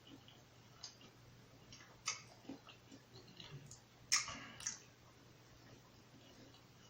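Close-miked eating: quiet chewing and wet mouth clicks, a few short smacks spread through, the loudest pair about four seconds in.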